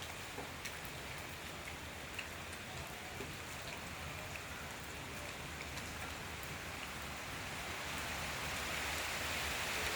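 Steady rain falling, with scattered drop ticks, growing louder over the last few seconds as the rain picks up.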